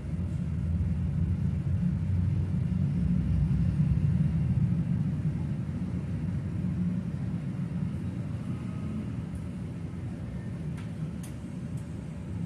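Freight train of covered hopper wagons rolling past, a steady low rumble of wheels on rail, heard through window glass.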